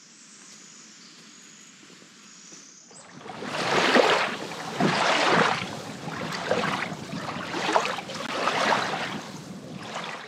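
Footsteps crunching through dry leaf litter, starting about three seconds in and coming roughly once a second. Before them, a faint steady high buzz of insects.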